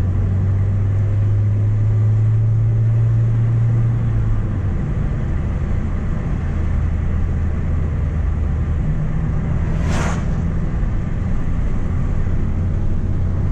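Mk1 Renault Clio's D7F 1.2-litre four-cylinder engine running as the car is driven. The engine note holds steady, falls about four seconds in and climbs again near the end. A brief hiss comes about ten seconds in.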